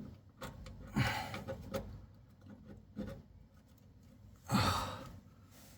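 A person breathing out heavily twice, about a second in and again, louder, near the end, with a few faint small clicks in between.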